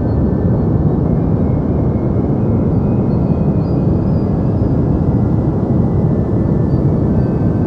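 Deep white noise: a steady, even hiss with most of its weight in the low end, unchanging throughout.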